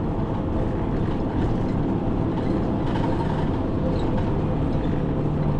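Diesel engine and road noise of a city bus under way, heard from inside the cabin; a steady low engine hum comes in about four seconds in.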